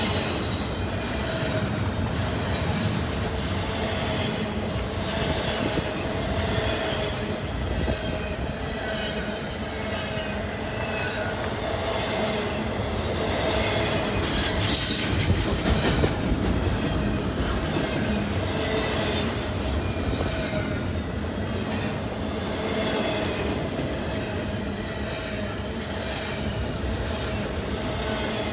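Double-stack intermodal freight cars rolling past at close range: a steady rumble of steel wheels on rail with clicking over the rail joints and a steady squealing tone from the wheels. There is a brief louder burst about halfway through.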